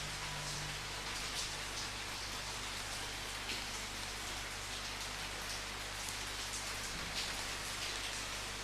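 Steady rain falling on a surface, an even hiss with now and then a louder spatter of heavier drops.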